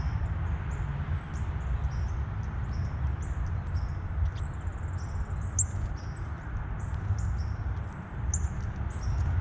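Small songbirds giving many short, high-pitched chirps, one after another, over a steady low rumble.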